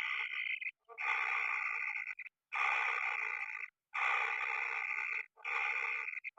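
Kingfisher chicks calling: a harsh, rasping call repeated about five times, each call about a second long with brief gaps between.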